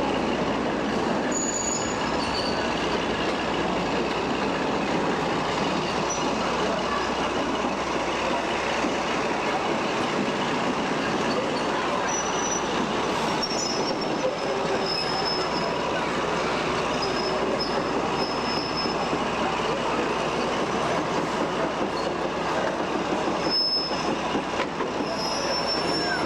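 Diesel-hydraulic locomotive and its train running on the line: a steady noise of engine and wheels on rail, with brief faint high-pitched wheel squeals now and then.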